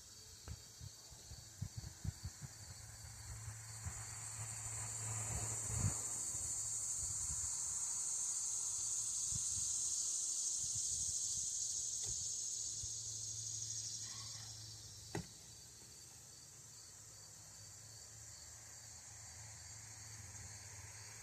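Insects droning in a high, steady hiss that swells up from about four seconds in and fades again around fourteen seconds. Over it are scattered light clicks and taps of small parts being handled.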